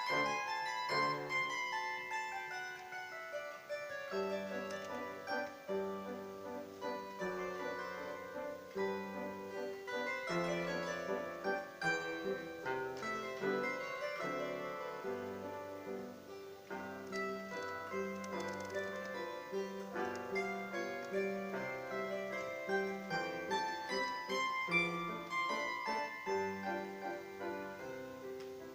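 Bandura being played: plucked strings ringing out a melody over a line of lower bass notes.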